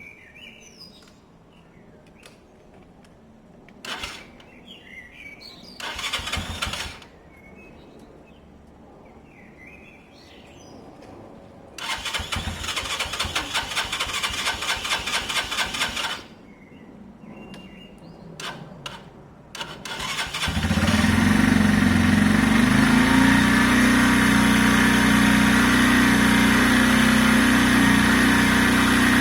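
Keeway 125cc motorcycle engine being turned over by its electric starter in two bursts, a short one and then a longer one of a few seconds. About twenty seconds in it fires and settles into a steady idle: the first start of a bike that has sat unused.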